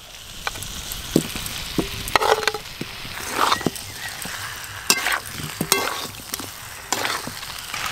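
Chicken and fried potatoes sizzling in a metal karai as a metal spatula stirs them into the masala, the spatula scraping and knocking on the pan again and again.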